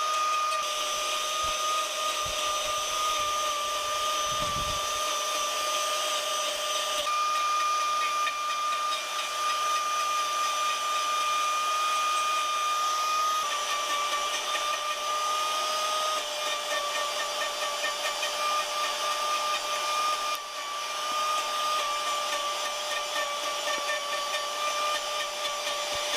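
Electric power carving tool with a rotary cutter running steadily while cutting wood: a continuous high motor whine over a rough, hissing cutting noise, its pitch dipping slightly a few times.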